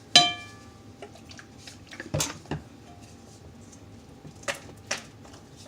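A spoon knocks once against a mixing bowl, leaving a short ringing tone, followed by a few softer clicks and knocks while slime is mixed in the bowl.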